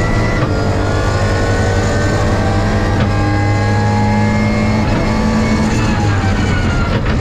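BMW E36 rally car's engine at full throttle heard inside the cockpit, climbing in pitch with two quick upshifts, about half a second in and about three seconds in. Near the end the pitch falls as the car lifts off and slows.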